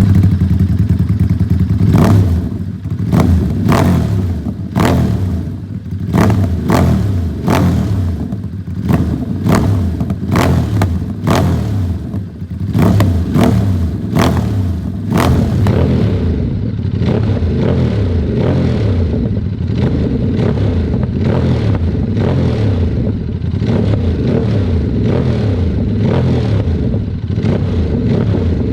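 Ducati Monster Plus's 937 cc V-twin through a full aftermarket exhaust with dual mufflers, blipped repeatedly with sharp pops between revs for about the first sixteen seconds, then settling into a steady idle.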